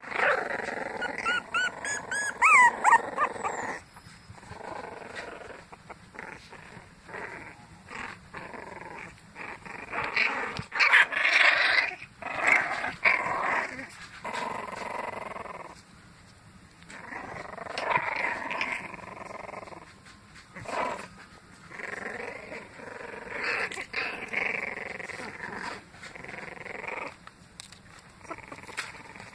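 Three-week-old puppies play-wrestling, making small rough growls in irregular bursts, with a few high-pitched sliding squeals in the first three seconds.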